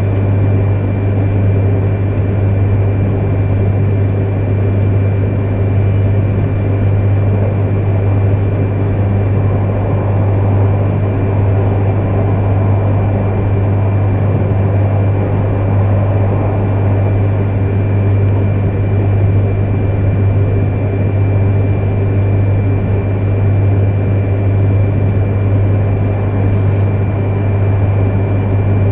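Steady running noise of an E3 series Yamagata Shinkansen train at speed, heard inside the passenger cabin: a low hum with a thin, steady high whine over it.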